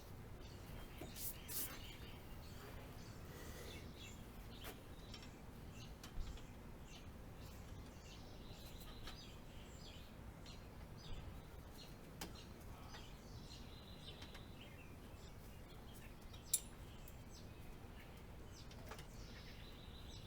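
Sparse light clicks and small metallic taps of hand tools and parts being handled while a bicycle is taken apart, with two sharper clicks, the louder one near the end, over a faint steady hiss.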